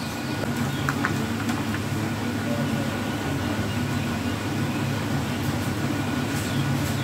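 Steady low mechanical hum, with a couple of faint clicks about a second in.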